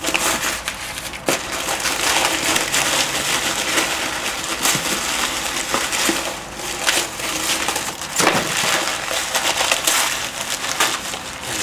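A UPS parcel being opened by hand: cardboard and packing material crinkling, crackling and rustling, with many small sharp crunches.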